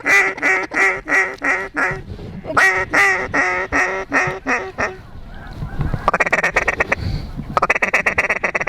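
Mallard duck calls blown hard at an incoming duck: two long strings of loud, evenly paced quacks, then fast chattering feed-call notes in the last few seconds.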